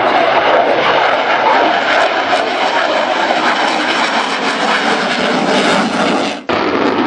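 F-16AM fighter jet's engine, a loud, steady jet noise of the aircraft in display flight, briefly dropping away for an instant near the end.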